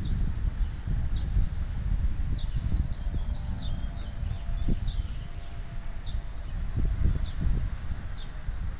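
A small bird chirps over and over, short high notes each sliding downward, about once or twice a second. Underneath is a continuous, uneven low rumble that is the loudest part of the sound.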